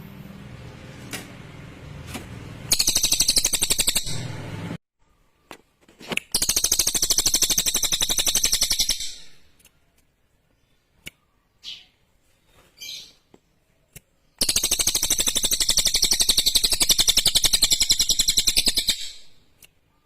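A cililin songbird singing three long, rapid, high trills, each lasting a few seconds, with short single chirps in the gaps between them.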